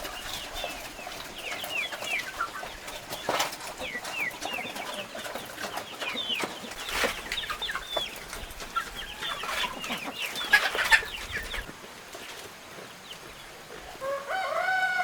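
Chickens clucking, with many short, high, falling calls and a few knocks among them. Near the end a long, held call begins.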